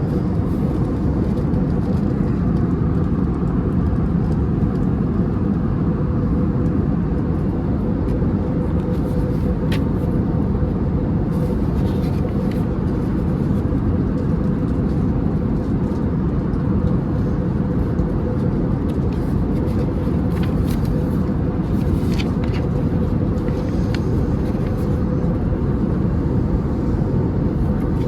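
Steady cabin noise of an Airbus A320neo airliner in flight: engine and airflow drone with a steady hum. A few faint clicks come in now and then.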